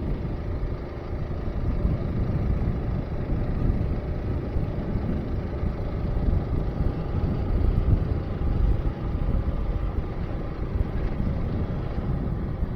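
Trailmaster MB200 mini bike's small single-cylinder engine running steadily while riding, with wind buffeting the microphone.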